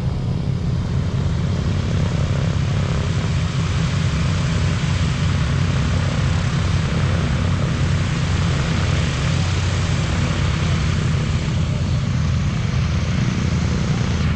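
Boeing B-17 Flying Fortress's four radial piston engines and propellers running, a loud, steady drone that holds level throughout.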